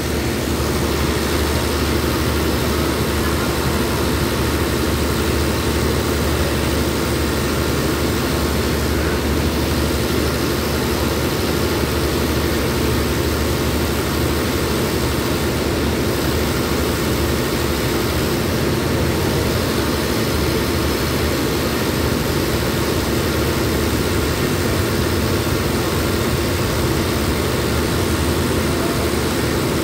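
Diesel-hauled passenger train idling at a station platform: a steady, loud mechanical drone with a low hum underneath.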